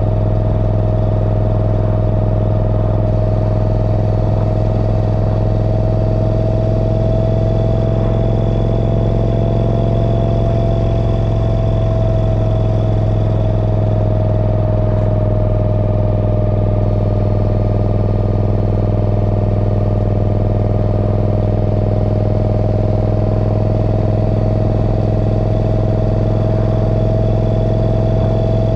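Morgan 3 Wheeler's V-twin engine running steadily at cruising speed, heard from the open cockpit together with road noise. A steady whine rides over the low engine hum and drifts slightly up and then down in pitch about halfway through.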